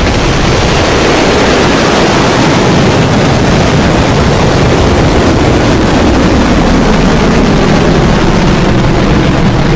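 Firefly Alpha rocket's first-stage engines, four kerosene and liquid-oxygen Reaver engines, at full thrust during liftoff: a loud, steady rumbling roar.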